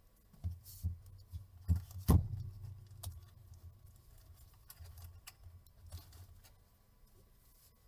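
Handling noise on a workbench: a few dull knocks, the loudest about two seconds in, followed by scattered light clicks and rattles as small tools or parts are moved.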